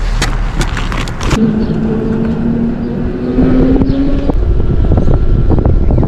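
Zero electric motorcycle under way, with a steady whine rising slowly in pitch between about one and a half and four seconds in, over road and wind rumble that grows louder near the end. A few sharp clicks come in the first second.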